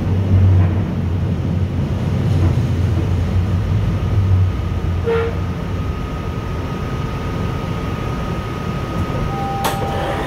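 Inside a UTDC ICTS Mark I rapid-transit car in motion: a low running rumble that eases about halfway through. A short tone sounds about five seconds in, followed by a steady high whine, and a sharp click comes near the end.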